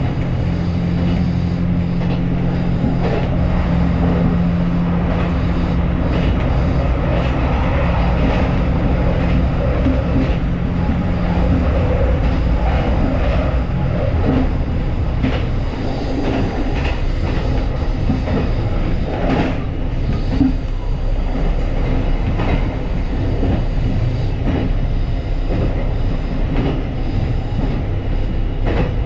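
JR Shikoku 2700 series diesel railcar running, with a steady engine drone that drops away about ten seconds in and wheels clicking over rail joints.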